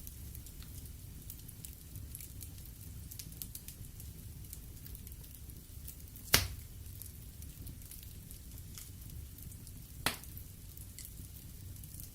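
Wood fire burning in a fireplace: a steady low rumble with frequent small crackles, and two sharp pops from the burning logs, the louder one about halfway through and another near the end.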